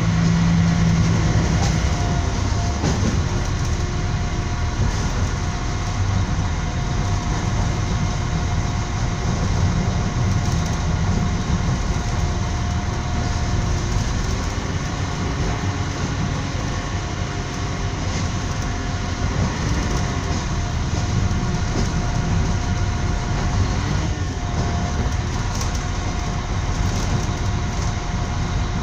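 Running noise of a moving train heard from inside the carriage: a steady low rumble of wheels on the rails, with a faint high steady whine over it.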